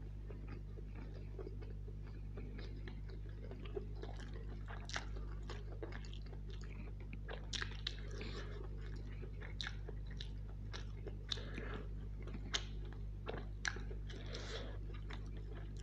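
Close-miked mouth sounds of chewing a mouthful of vegetable biryani by hand: wet chewing with many short sharp smacks and clicks, which come more often after about seven seconds. A steady low hum runs underneath.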